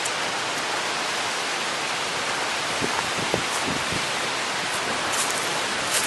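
Strong wind blowing in a steady rushing hiss, with a few brief low buffets on the microphone about three to four seconds in.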